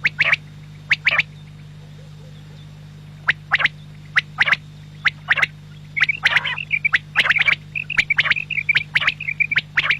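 Quail calling repeatedly: short, sharp notes, mostly in pairs, then from about six seconds in a quick run of chirping notes mixed with them. A steady low hum runs underneath.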